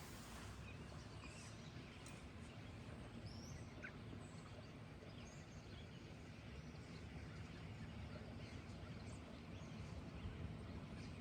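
Faint bird calls, a few short chirps and glides here and there, over a steady low background rumble.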